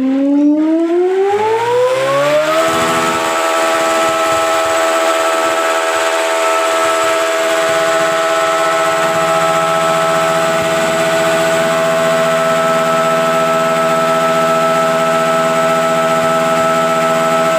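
Big motorcycle engine revved up over about two seconds, then held steady at high revs.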